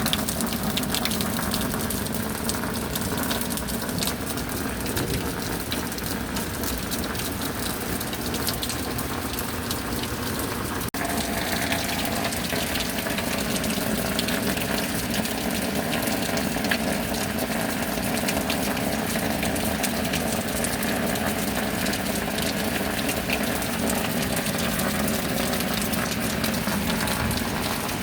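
Steady rain falling, with a brief dropout about eleven seconds in, after which the sound shifts slightly.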